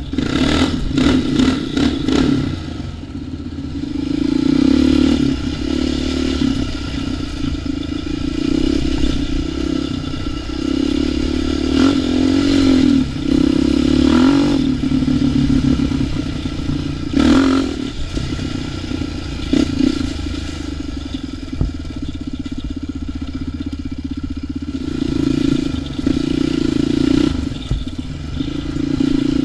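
Quad ATV engine running under way on a dirt trail, its note rising and falling as the throttle is worked, with repeated revving surges. Rattles and scrapes from the machine going over rough ground run underneath.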